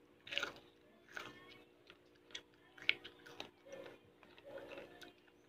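A person biting into and chewing a piece of raw green vegetable: a scattering of short, crisp crunching clicks, quiet against a faint steady hum.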